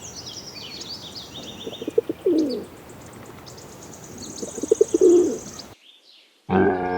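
Pigeon cooing three times, low calls about two and a half seconds apart, with small birds chirping high above them.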